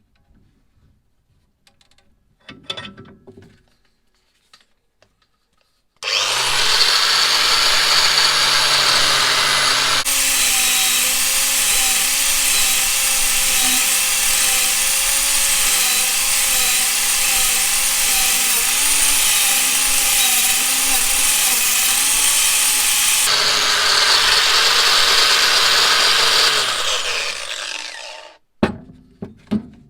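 Electric power tool switched on, spinning up to a steady speed and running against metal with a rough, grinding sound through most of its run, then winding down and stopping near the end. A few light handling clicks come before it starts.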